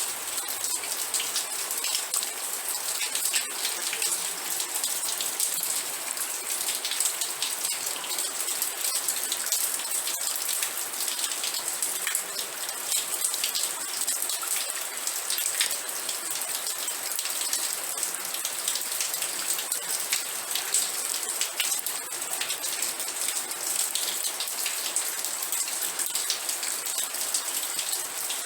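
Steady rain falling, with a dense scatter of individual drops striking a surface.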